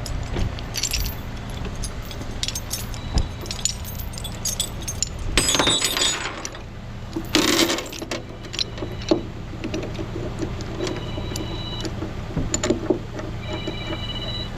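Metal tow rigging (chain, hooks and snatch block) clinking and rattling in irregular clusters as it is handled and hooked up, over the steady low hum of an idling truck engine.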